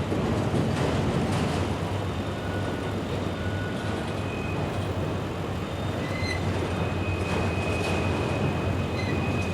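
A CSX train rolling past, a steady rumble of wheels on rail. A faint, thin high squeal comes in about six seconds in and holds.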